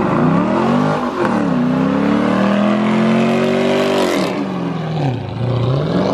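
Chevrolet Camaro's engine revving hard during a burnout with its rear tyres spinning. The revs climb and hold high, drop sharply about four seconds in, then climb again near the end.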